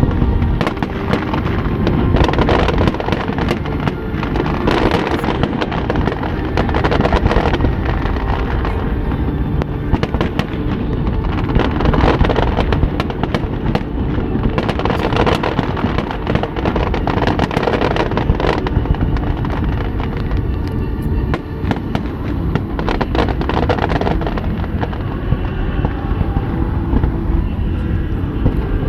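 Aerial fireworks going off in a dense, continuous barrage of bangs and crackles, loud and close.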